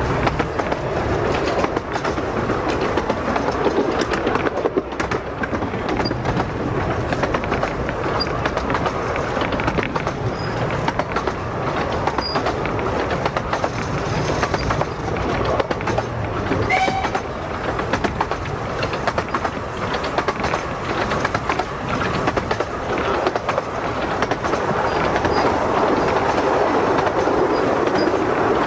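A 15-inch gauge steam-hauled passenger train running along the line, heard from a coach window: a steady rumble and clatter of wheels on rail.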